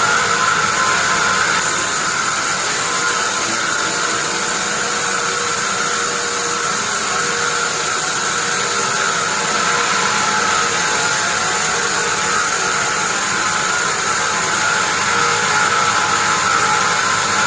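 Sawmill band saw running steadily, a continuous mechanical whine over a loud hiss.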